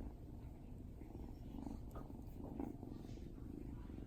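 Black kitten purring close to the microphone: a low, steady rumble that swells and eases in regular pulses with his breathing.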